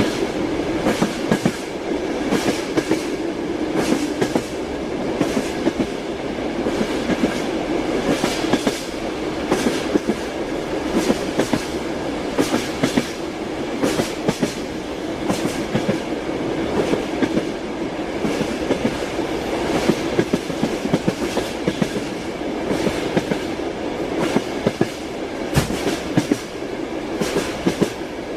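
Train wheels clacking over rail joints, with the steady rumble of a moving railway carriage underneath; the clacks come frequently and unevenly throughout.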